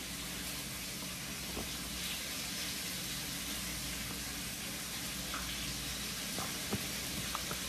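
Food frying in hot oil, a steady quiet sizzle, with a few faint light clicks.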